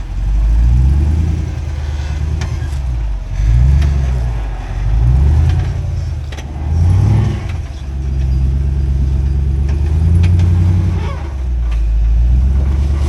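Off-road rig's engine revving in repeated throttle surges, rising and falling every second or two, with a few sharp knocks, as the rig works its way over rock.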